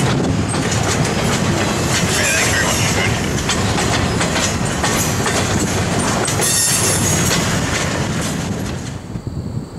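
Freight train of double-stack container well cars rolling past, steel wheels clicking steadily over the rail joints. The sound drops off sharply about nine seconds in.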